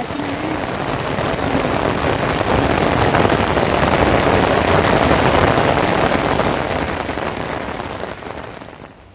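Heavy rain falling hard, swelling to its loudest around the middle and easing off near the end before dropping away sharply.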